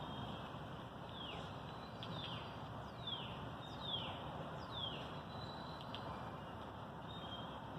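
A bird calling: a series of about six short, faint downslurred chirps, each sliding down in pitch, roughly one a second, over a low steady background hiss.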